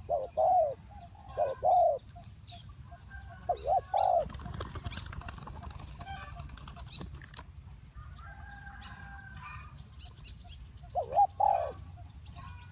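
Spotted dove cooing in short bursts of coo notes in the first two seconds, again around 4 s and near 11 s. Between them there are a few seconds of wing-flapping noise, and faint high chirps from small birds.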